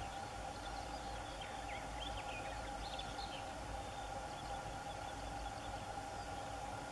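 A few faint, high bird chirps and short falling peeps in a cluster near the start, over a steady low hum and rumble.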